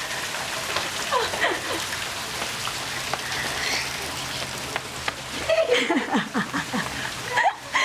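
Steady rain falling on a concrete porch and pavement, an even hiss throughout. A toddler's short pitched vocal noises break in about a second in and again around six seconds in.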